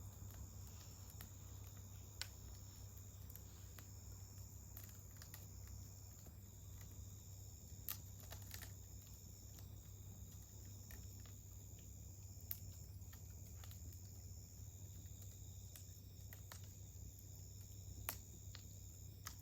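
Insects trilling steadily on one high note, with a few sharp pops and crackles from a wood campfire.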